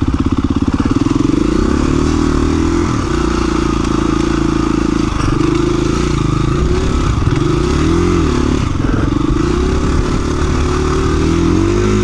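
2017 KTM 350 EXC-F's single-cylinder four-stroke engine running at low revs, the revs rising and falling repeatedly as the throttle is worked.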